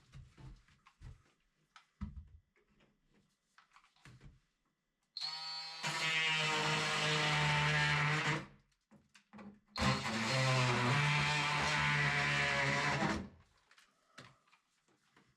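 Oscillating multi-tool cutting into a wooden door, run in two bursts of about three and a half seconds each, after a few seconds of light handling knocks.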